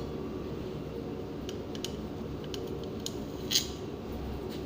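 Light metallic clicks of tools and loosened bolts being handled on a pump motor housing, with one louder clink about three and a half seconds in, over a steady background hum.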